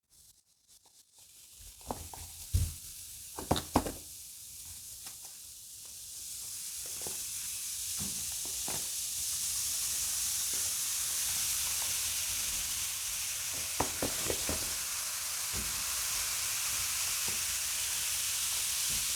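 Baking soda and vinegar fizzing, a steady hiss that builds up a few seconds in and keeps going as the mixture reacts to clean mineral scale off an old shower head. A few knocks and clatters near the start as things are handled.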